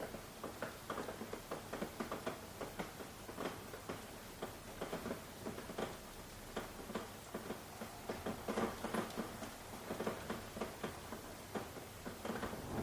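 Rain falling, with irregular drops tapping several times a second over a light steady hiss.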